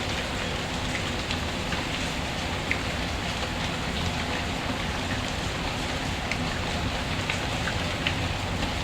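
Steady rain falling, with scattered sharp little ticks now and then.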